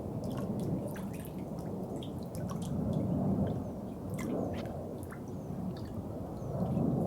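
Water running and dripping: a low rushing that swells and eases every second or two, with many small sharp drips and splashes scattered over it.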